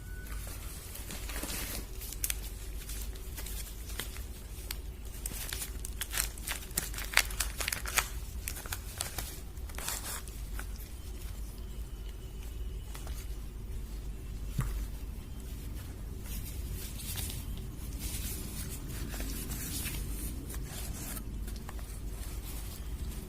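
Soap bar wrappers being unwrapped by hand: repeated crinkling and tearing of the packaging in short irregular bursts, busiest a few seconds in and again near the end, over a steady low hum.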